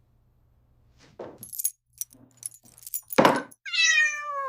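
Light jingling and clinking for a couple of seconds, then a sharp noisy burst about three seconds in, and a cat's meow that falls in pitch near the end.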